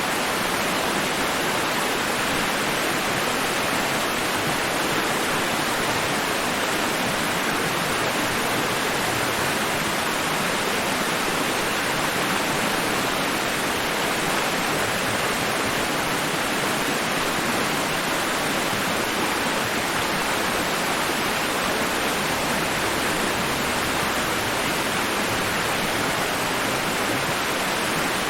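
Steady, even rushing hiss of a white-noise sleep track, with no rise and fall of breaking waves.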